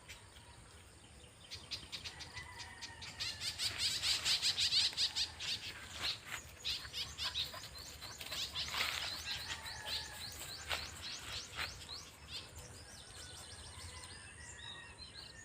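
A flock of many small birds chirping rapidly and overlapping. The chirping grows busiest a few seconds in and thins out toward the end.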